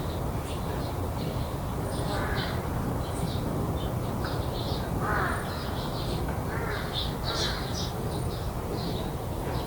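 Crows cawing several times, harsh calls a few seconds apart, with many short high chirps of smaller birds and a steady low rumble underneath.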